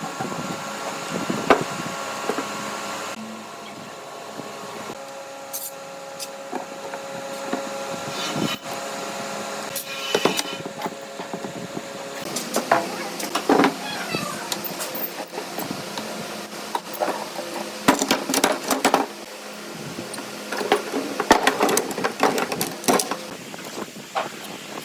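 Workshop sounds: irregular knocks, taps and clatter of wood and hand tools, coming in clusters, over a faint steady hum that stops about halfway through.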